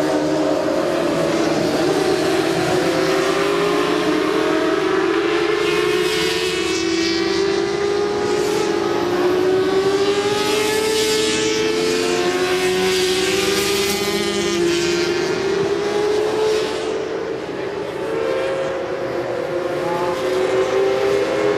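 Several 400 cc supersport racing motorcycles running at high revs on track, their overlapping engine notes rising and falling as they pass.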